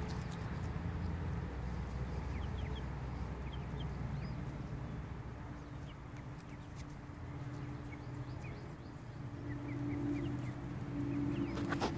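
Scattered short, high chirps of small birds over a low steady hum that grows louder near the end.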